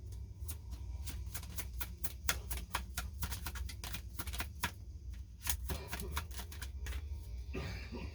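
A deck of reading cards being shuffled by hand: a quick, irregular run of crisp card snaps and flicks, over a steady low hum.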